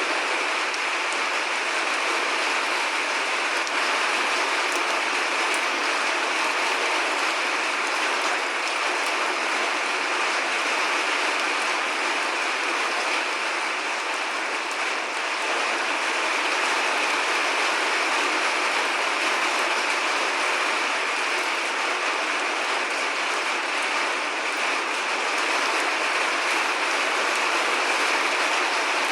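Rain falling steadily: a dense, even patter and hiss with no thunder in it.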